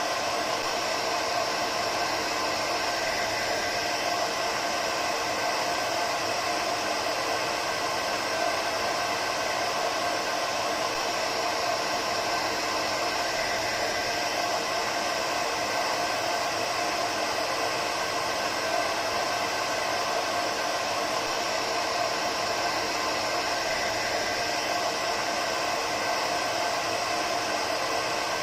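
Hair dryer running continuously, a steady whooshing airflow noise with a constant motor whine and no change in speed.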